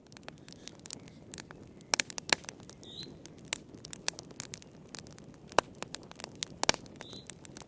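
Wood fire burning in a fireplace: irregular crackles and sharp pops over a low steady hiss of the flames.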